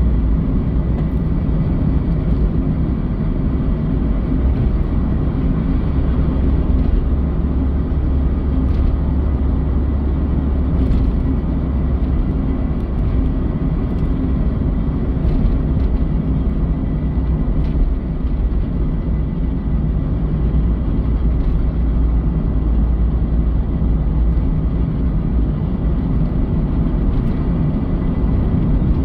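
Mazda Eunos Roadster NA8C running, a steady low drone with a faint, thin high whine held throughout. In it the owner hears something dragging or rubbing, an abnormal noise of unknown cause.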